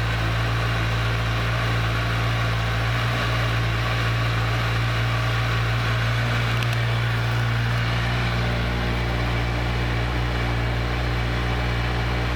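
Kawasaki Ninja 1000's inline-four engine idling steadily, with one faint click about seven seconds in.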